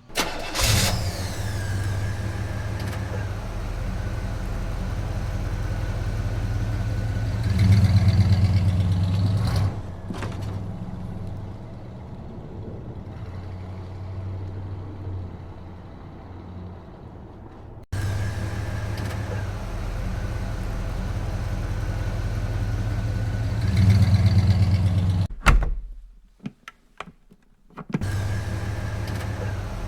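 Cartoon vehicle engine sound effect, a steady low rumble with a faint whine, rising to a louder stretch about eight seconds in. The same effect starts over partway through and swells again, then cuts out briefly with a few clicks before it resumes.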